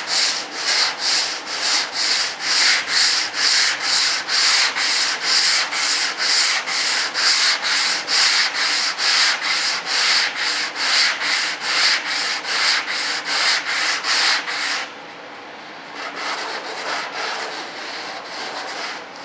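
Hand sanding of Bondo body filler with sandpaper: quick, even back-and-forth scratching strokes, about two or three a second. About three-quarters of the way through the strokes become softer and less distinct.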